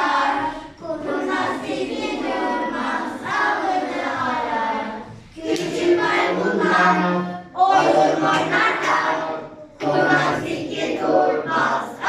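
A group of voices singing a Turkish children's song in phrases, with short breaks between lines.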